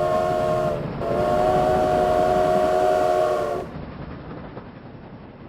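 Steam locomotive chime whistle sounding several notes at once: a blast that ends about a second in, then a long blast that cuts off after about three and a half seconds. The train's quieter running noise follows.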